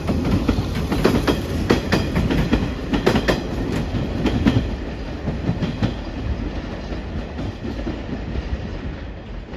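Hanshin Railway electric train pulling away from the platform, its wheels clicking over rail joints and points with a steady rumble underneath. The sound slowly fades as the train moves off.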